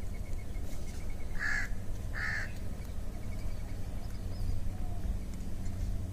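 A bird calls twice in short loud cries about a second apart, with fainter chirping around them, over a steady low rumble.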